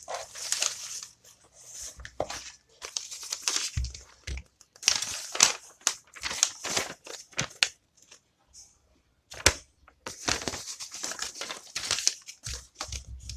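Small retail packaging being torn open and crinkled by hand, in irregular rustling and tearing bursts with short pauses and a sharp click about nine and a half seconds in.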